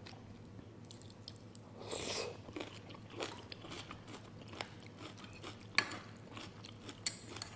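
Close-miked chewing of a mouthful of spicy instant noodles, with soft crunches and a few short sharp clicks.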